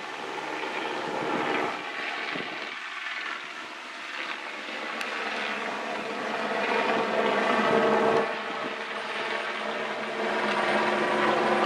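Helicopter flying low over the sea toward the ship, its rotor and engine noise growing steadily louder.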